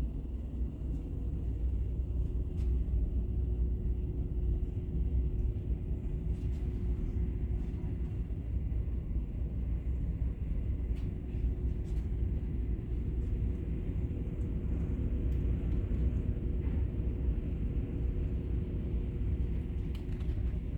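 Strong wind buffeting the microphone in a steady, gusting low rumble, with a faint steady hum underneath and a few small clicks.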